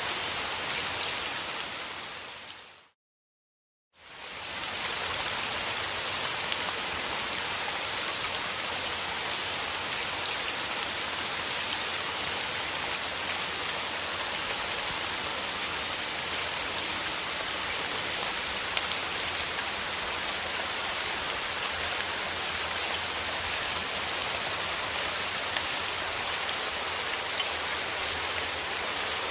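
Steady rain falling, an even hiss of many drops. About two seconds in it fades away, drops to a second of dead silence, then returns and keeps on, as at a loop point in the recording.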